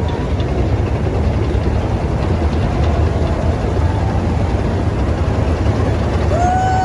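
Heavy military armored vehicles' engines running in a steady, deep rumble with a noisy haze over it.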